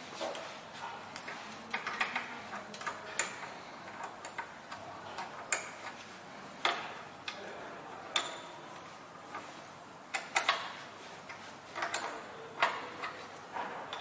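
Irregular light clicks and taps of small metal parts and a screwdriver being handled while screws are undone on the chopping machine's blade mount.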